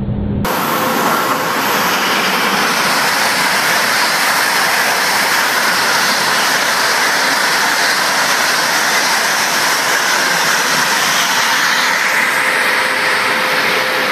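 High-speed train running at speed: a loud, steady rushing noise that starts abruptly about half a second in.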